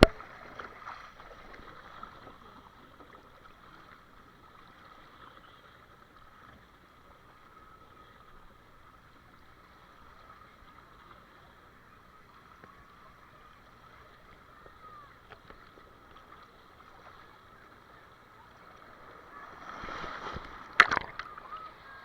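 Faint, steady watery background noise, with one sharp knock near the end.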